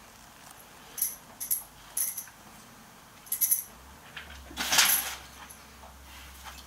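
Short, high-pitched bird chirps in quick little groups, with a louder rustling burst about two-thirds of the way through.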